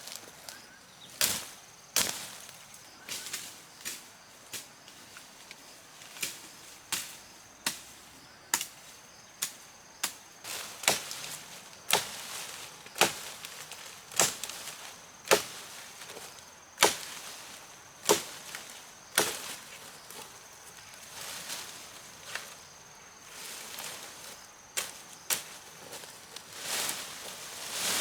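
Repeated sharp chopping blows, roughly one a second with a short lull about three quarters of the way through. A faint steady insect buzz runs underneath.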